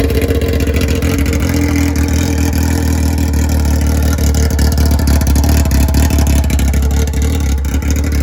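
Yamaha R6's inline-four engine idling steadily and loud, without revving, with its exhaust removed, so it runs with no muffler.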